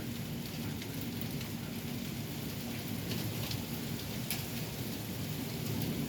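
Steady heavy rain in a thunderstorm, with a constant low rumble underneath and a few scattered sharp ticks of drops or hailstones striking.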